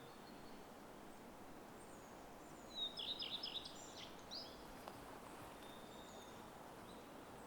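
Forest ambience: a songbird sings one short, rapid twittering phrase about three seconds in, with a shorter note just after, over a faint steady outdoor hiss and a few distant thin whistles.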